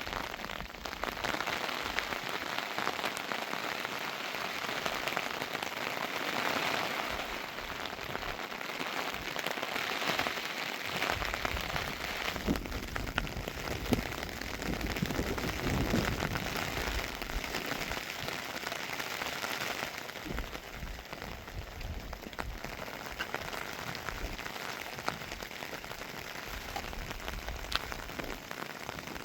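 Heavy rain falling steadily, a continuous hiss with the fine ticks of drops hitting surfaces, and a deeper low rumble swelling briefly around the middle.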